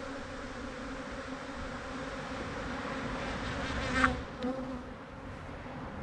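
Honeybees from a defensive, opened colony buzzing in a steady, dense hum; about four seconds in a louder buzz passes briefly, followed by a smaller one.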